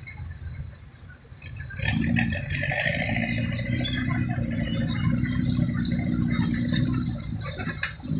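A heavy diesel engine running steadily, starting about two seconds in and easing off near the end, with insects trilling throughout.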